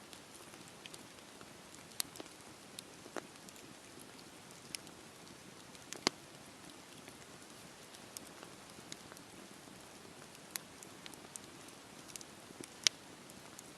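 Campfire burning with a soft, steady hiss and irregular crackles and pops of burning wood; the loudest snaps come about six seconds in and near the end.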